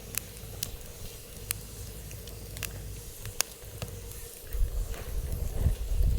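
Wood fire in a Snow Peak fire pit crackling with scattered sharp pops over a soft hiss. About four and a half seconds in, a low rumble of wind on the microphone rises and grows louder.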